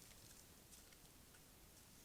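Near silence: faint steady hiss from a trail camera's microphone, with a few faint ticks.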